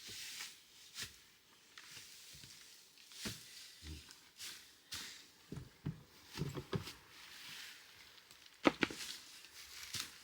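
Irregular knocks, taps, scrapes and rustles of hands working at an old compost bin, with one sharper knock near the end.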